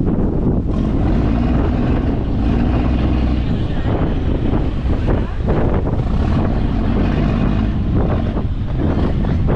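Fishing boat's engine running steadily under strong storm wind buffeting the microphone, with a few brief surges of noise.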